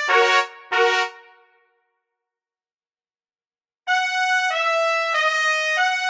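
A solo trumpet-like brass line plays two short notes, stops dead for about two seconds, then comes back in with a run of held notes stepping from pitch to pitch.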